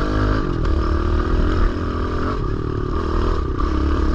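Kawasaki KLX110L pit bike's small single-cylinder four-stroke engine running at steady part throttle while riding, its pitch rising and falling slightly.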